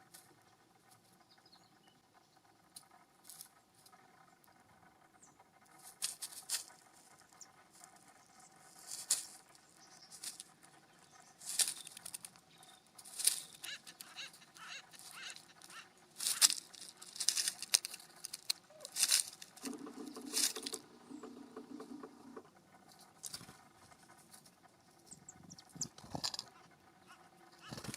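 Birds feeding on the ground: irregular dry rustling, scratching and pecking clicks in seed and leaf litter, busiest through the middle. A low buzzing sound lasts a few seconds about two-thirds of the way through.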